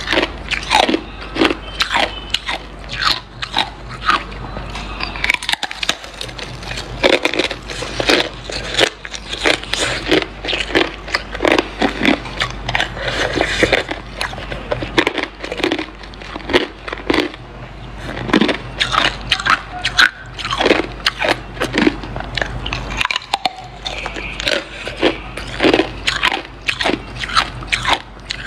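Hard ice being bitten and chewed: dense, sharp crunching and cracking, several crunches a second, with brief pauses about six seconds in and near the end.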